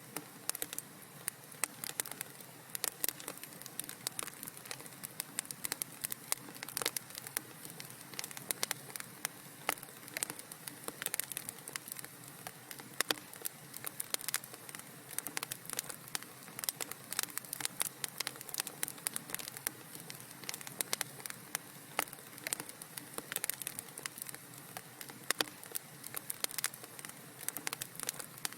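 Wood fire in a fireplace crackling steadily: dense, irregular sharp pops and snaps over a low hiss.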